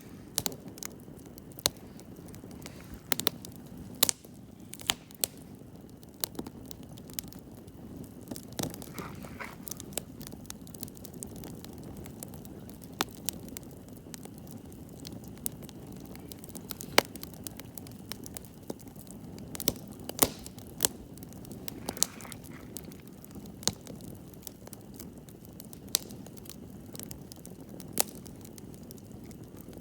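Wood campfire crackling: irregular sharp pops and snaps, several a second at times, over a steady low hiss of burning.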